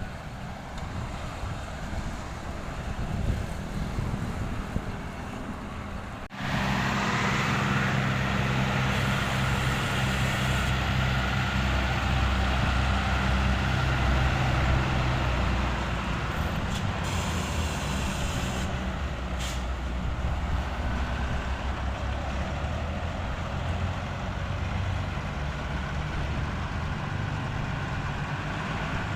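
Heavy diesel construction machinery running at a road-paving site. About six seconds in the sound cuts abruptly to a louder, steady engine sound that runs on through the rest.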